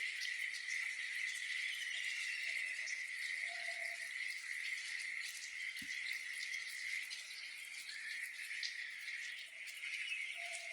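Chorus of insects, a steady high trill that runs without a break, with a few short low calls breaking in now and then.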